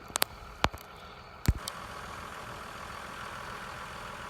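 Vehicle engine idling steadily, with a few sharp clicks in the first second and a half; the loudest knock comes about a second and a half in, after which the engine hum is a little louder.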